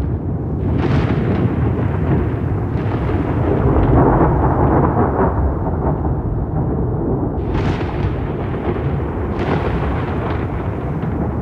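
Rolling thunder: a continuous deep rumble that swells and cracks again several times, with sharper claps about 7.5 and 9.5 seconds in.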